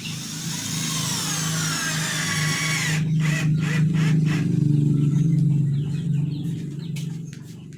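Electric power tool running with a steady hum, a high whine falling in pitch over the first three seconds, then a few short sharp noises; it fades near the end.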